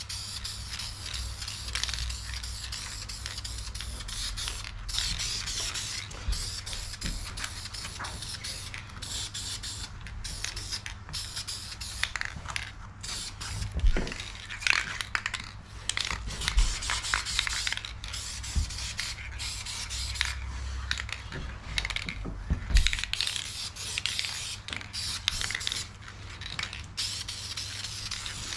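Masking tape being pulled off the roll and torn in repeated stop-start rasps, over a steady low hum.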